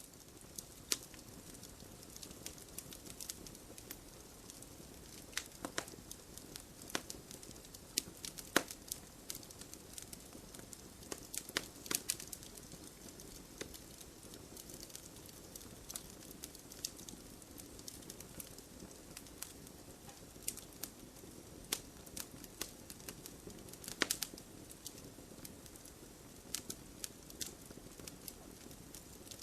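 Wood campfire burning: a steady low rush of flame with irregular sharp crackles and pops of burning wood, a few of them louder than the rest.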